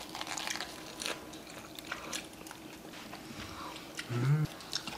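A person biting into and chewing a mouthful of lettuce wrap, with crisp crunching and wet mouth sounds. A short voiced hum or murmur comes about four seconds in.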